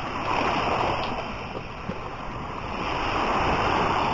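Sea waves washing up on the beach, a steady rushing that swells twice as the surf comes in.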